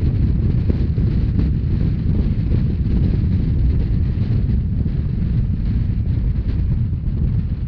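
Steady low rumble of an RhB narrow-gauge train running on the line, with wind buffeting the microphone.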